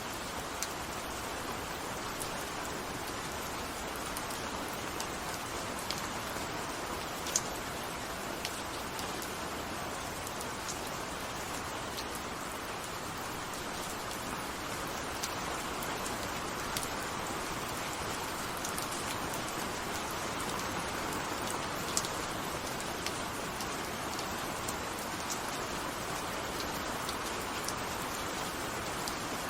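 Steady rainfall: an even hiss of rain with scattered louder drops ticking on a surface.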